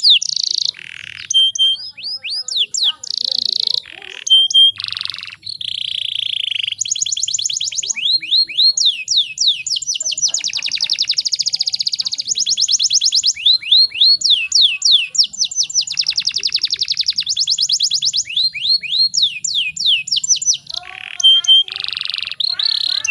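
Domestic canary singing: fast trills of repeated downward-sweeping notes alternate with buzzy, rasping phrases, broken by a few short pauses.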